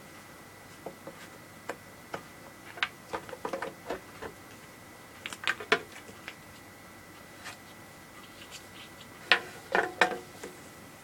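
Handling noises from setting up a fog machine and its power lead: scattered clicks and light knocks, bunched about three seconds in, again around five and a half seconds, and loudest near the end.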